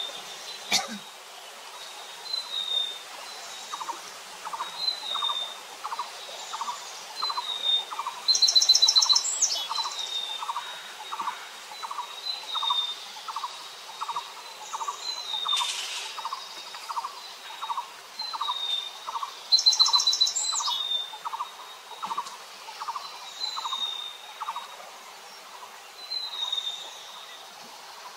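Birds calling: a steady series of low notes about twice a second, a short high chirp repeated every second or so, and twice a loud, rapid high trill.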